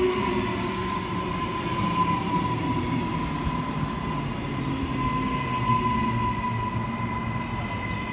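Train running, a steady low rumble with a high whine held throughout, with a brief hiss about a second in.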